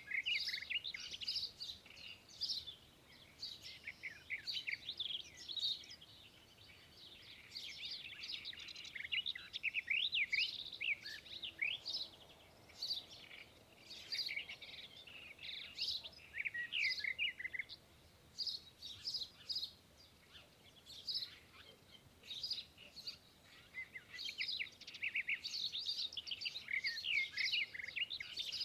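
Small songbirds chirping and twittering in quick, high-pitched bursts, several birds at once, with short lulls between flurries.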